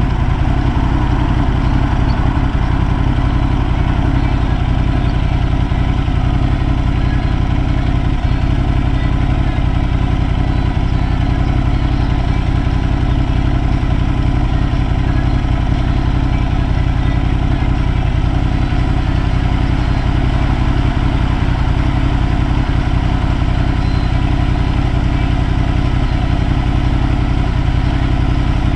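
Motorcycle engine idling steadily, its pitch and level unchanged throughout.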